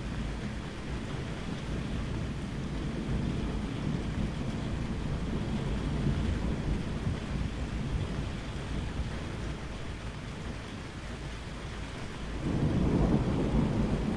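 Steady rain falling, with low rolls of thunder; a louder thunder roll swells near the end.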